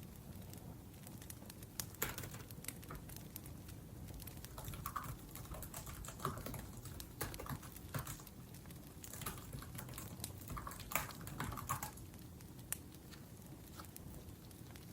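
Typing on a laptop keyboard: bursts of key clicks that thin out about twelve seconds in, over the low steady background of a crackling wood fire.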